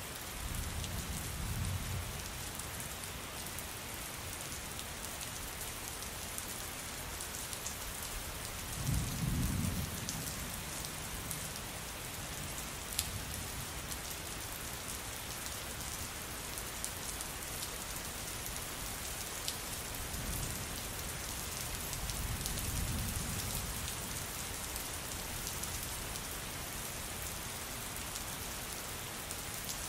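Steady rain with a hiss of drops and occasional sharp drips. Low rumbles of thunder come three times: about a second in, more strongly around nine seconds in, and again around twenty-two seconds in.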